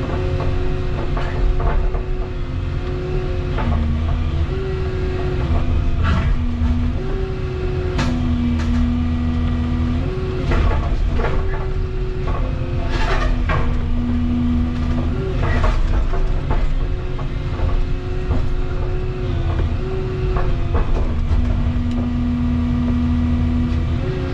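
Volvo 235EL excavator working under load, its engine and hydraulics running steadily with a whine that steps up and down in pitch every few seconds as the hydraulics take load. Sharp cracks and knocks come and go over it, loudest in the middle, from concrete being broken.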